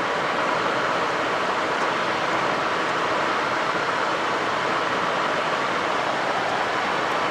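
Steady rushing noise inside the cockpit of a Cessna Citation XLS business jet on final approach: airflow and engine noise with no change in pitch or level.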